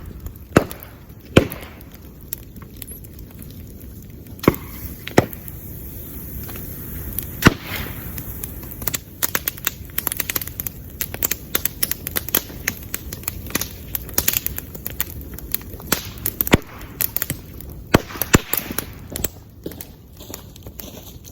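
Bamboo bonfire crackling, with many irregular sharp pops and a few louder bangs as the bamboo stalks burst in the heat, over a steady low rumble.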